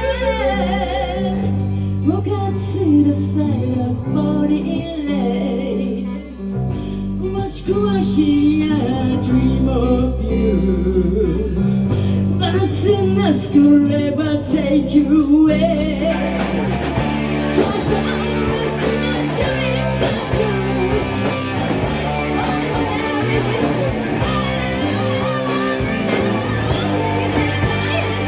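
Live rock band playing a song, with a singer over electric guitar. The full band comes in about halfway through and the sound grows much fuller.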